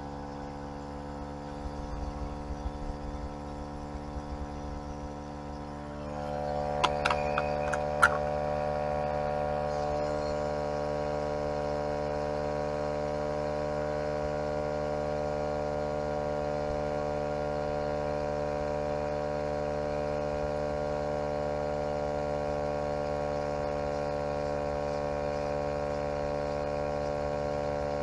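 Portable 12-volt tyre-inflator air compressor running steadily while pumping up a flat car tyre, a droning hum. It grows louder about six seconds in, with a few sharp clicks just after.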